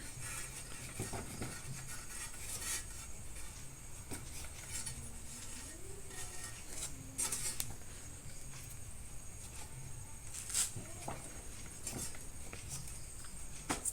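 Scattered light clicks and taps of small metal parts and tools being handled, a few slightly louder knocks spread through it.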